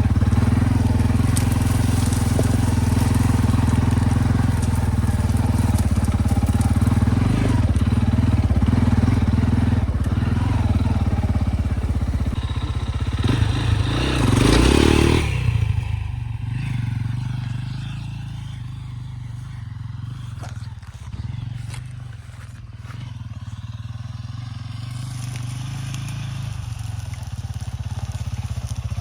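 Loncin SX2 enduro motorcycle engine running steadily while riding. About halfway through there is a loud rushing noise for a second or so, and after it the engine drops to a quieter, lower rumble that slowly builds again near the end.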